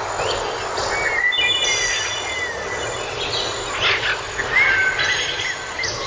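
Birds calling in a series of gliding chirps and short high whistles over a steady rushing noise.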